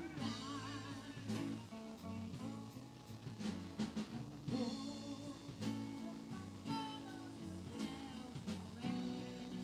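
Live band music with singing, electric guitar, bass and drum kit.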